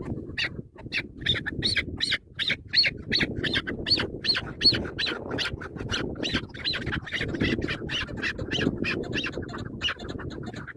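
Chukar partridge giving its repeated chuk-chuk call, short harsh notes at about three a second without a break, over a low rumbling noise.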